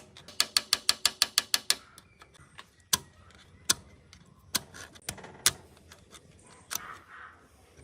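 Ratchet wrench clicking in a quick, even run of about seven clicks a second, stopping a little under two seconds in, followed by several separate metal clinks of tools or engine parts being handled.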